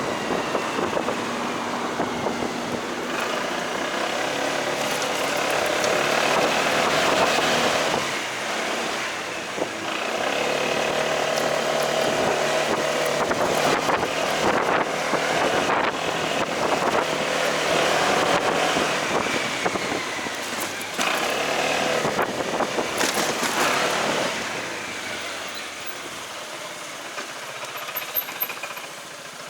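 Motorcycle engine and road noise while riding, the engine pitch rising and falling as it speeds up and eases off several times. It quietens toward the end.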